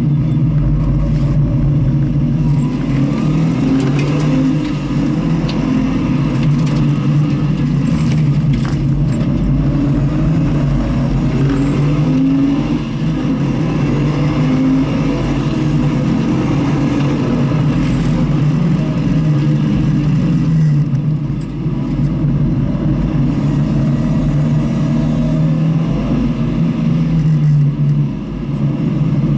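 Car engine being driven hard around a race track, revving up and down through the gears, with brief drops in level where the driver lifts off a few times.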